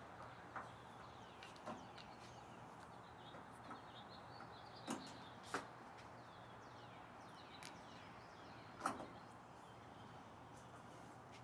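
Quiet background hiss with a few faint, scattered clicks and taps, the loudest about nine seconds in. Faint high, falling chirps are heard now and then.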